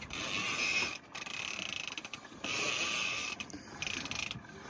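Heavy fishing reel being cranked in four short spurts, its gears whirring, as line is won back on a hooked shark.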